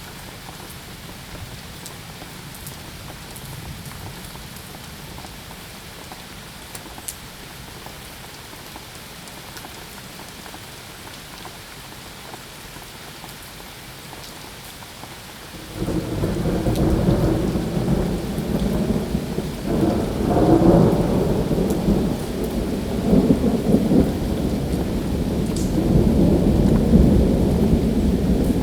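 Steady rain falling, then a little over halfway through a loud roll of thunder breaks in suddenly and rumbles on in swelling waves over the rain.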